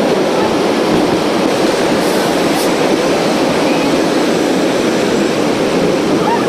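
Steady rushing running noise of a passenger train moving at speed, heard from a window of the train itself.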